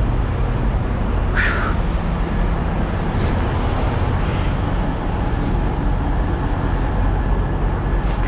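Semi truck's diesel engine running steadily, with a brief higher-pitched squeak or hiss about a second and a half in.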